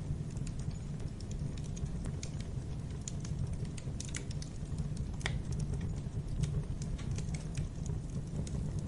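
Wood fire crackling: irregular small pops and snaps over a steady low rumble of burning logs, with a sharper pop about five seconds in.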